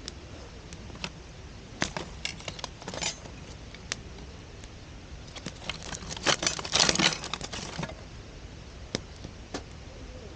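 Wood campfire crackling: scattered sharp pops and snaps, with a denser burst of crackling about six to eight seconds in, over a steady faint hiss.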